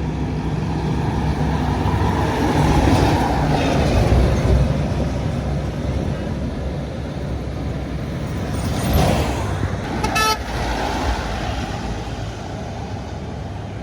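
Diesel engine of a heavy vehicle passing close, swelling to its loudest a few seconds in and then easing off. About ten seconds in, a short horn blast sounds once.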